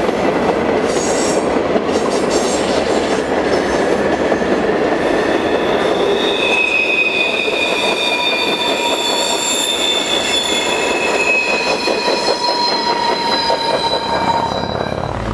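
Freight train's covered hopper cars rolling past on a curve, a steady rumble of wheels on rail with high steady wheel squeals from about five seconds in, easing off as the last car goes by near the end.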